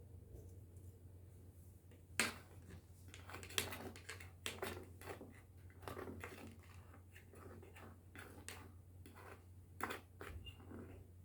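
Kitchen handling sounds: a scattered run of clinks and knocks of utensils and dishes, the sharpest about two seconds in, over a steady low hum.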